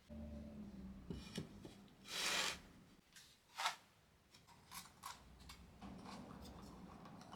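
Light hand-work noises at a workbench: a short scrape about two seconds in, a sharper brief swish a second and a half later, and scattered light clicks and taps.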